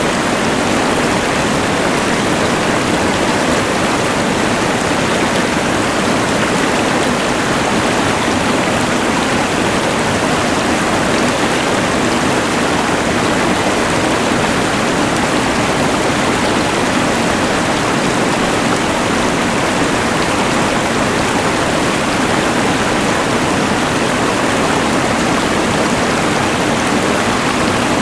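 Rushing mountain river mixed with the hiss of a LectroFan white noise machine: a dense, steady wash of water noise that does not change.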